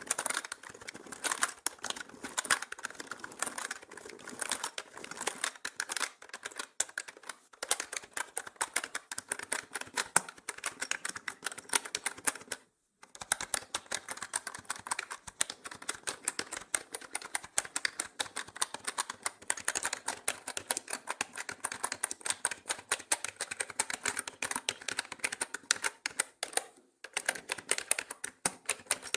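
Mechanical keyboard keys clicking in fast, continuous typing, mixed as 8D audio that pans around the listener. The typing stops briefly about 13 seconds in, then carries on.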